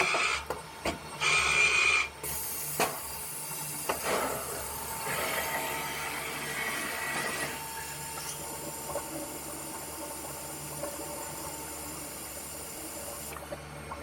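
CNC stone-working machine at work: a few short, loud spurts in the first two seconds, then a steady hiss with a faint whine underneath.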